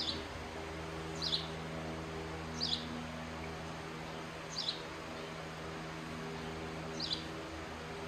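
A bird chirping: five short, high chirps that fall in pitch, spaced one to two and a half seconds apart, over a steady low hum.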